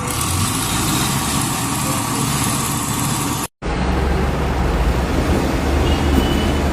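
Truck engine and road noise while driving: a steady, loud rumble. It breaks off abruptly about three and a half seconds in and resumes with a heavier low rumble.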